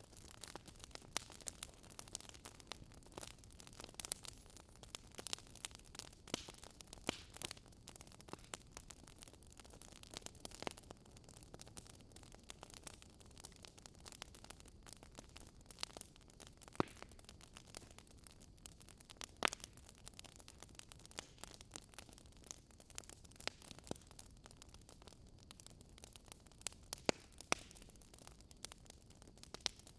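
Fire in a fireplace crackling: frequent sharp pops and snaps at irregular intervals over a low, steady hiss.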